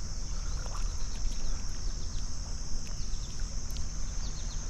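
Steady, high-pitched chorus of crickets or similar insects, with a low rumble underneath and a few short chirps.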